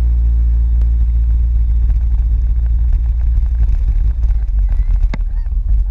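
Motorcycle engine picking up revs, then running at a steady speed, with heavy wind rumble on the microphone.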